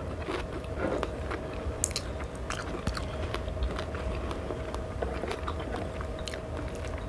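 A person chewing food close to the microphone: scattered small mouth clicks and smacks, over a faint steady hum.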